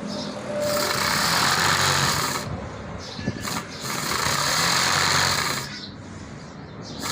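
A small electric motor runs in two bursts of about two seconds each, with a loud hiss over a low hum. A brief burst comes between them and another right at the end.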